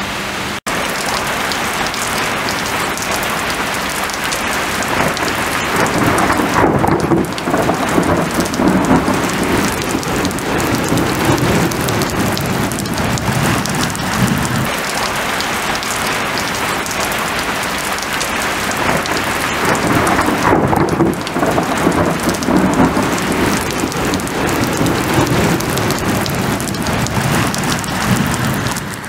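Heavy rain pouring down steadily, with rumbles of thunder.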